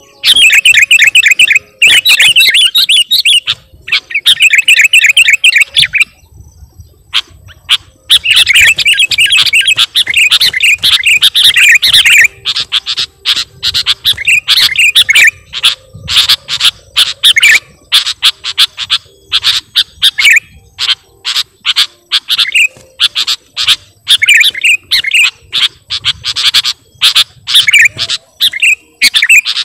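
Sooty-headed bulbul (kutilang) singing loudly. Three fast, trilled chattering phrases with short gaps come first, then a long run of short separate notes at a few per second.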